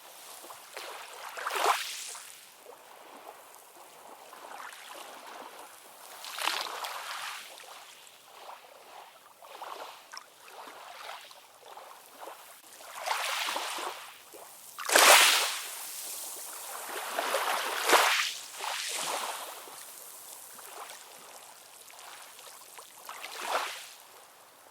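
Ocean surf: waves washing in as irregular surges of hissing water noise a few seconds apart, with little low rumble, the strongest about fifteen seconds in.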